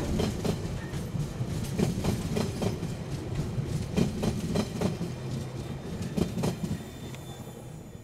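Freight train's container wagons rolling past close by: a low rumble with repeated wheel clacks over the rail joints, dying away near the end as the last wagon passes.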